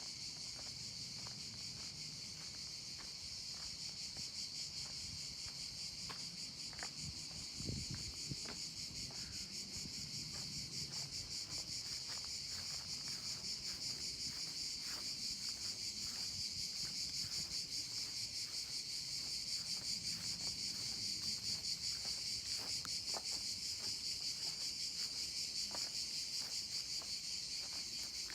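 Steady, high-pitched chorus of buzzing insects with a fast pulsing texture, growing slightly louder over time. Scattered faint clicks and a single low thump about eight seconds in.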